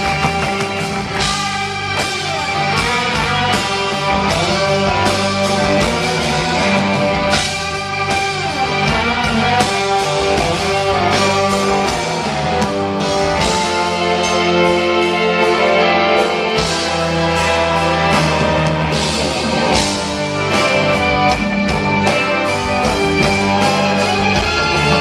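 Rock band playing live, with electric guitars prominent over bass and drums.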